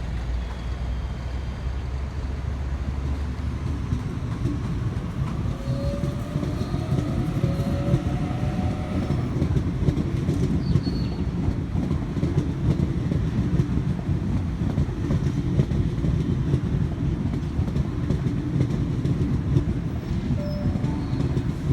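V-set electric double-deck intercity train departing the platform: a steady rumble that builds slightly, with a brief rising whine about six seconds in as it pulls away.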